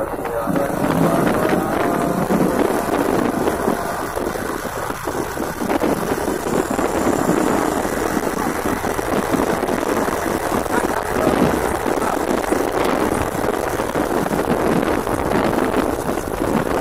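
Heavily loaded trucks on the road, a steady rumble of engines and road noise with wind buffeting the microphone.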